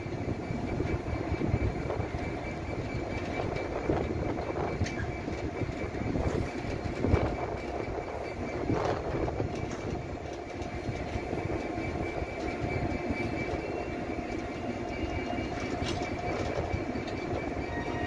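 Loaded open freight wagons rolling slowly past, wheels clanking and knocking irregularly over the rail joints, with a thin steady high squeal from the wheels.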